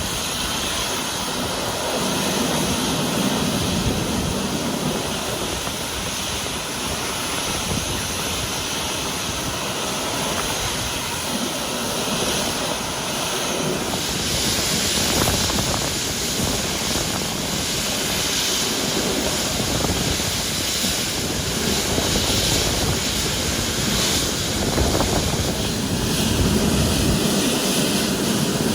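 Jet airliner engines running, a steady noise that takes on a brighter, hissing edge about halfway through.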